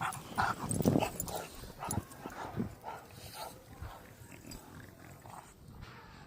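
English bulldog puppy making a string of short, quiet sounds, busiest in the first three seconds, then fainter and more spaced out.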